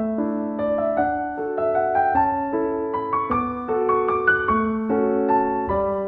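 Background piano music, a gentle melody of notes played one after another at an even pace.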